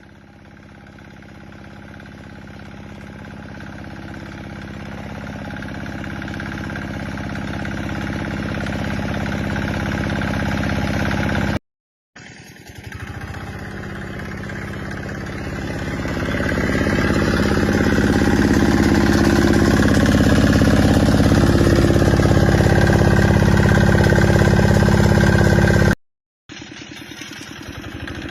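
Tractor diesel engine running steadily, growing louder over several seconds as it comes closer. The sound cuts out abruptly twice, then resumes louder.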